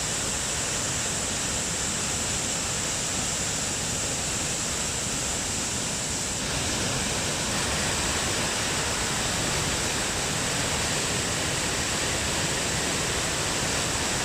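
Steady rushing of a rain-swollen waterfall, a dense even noise of falling water that gets a little louder about six and a half seconds in.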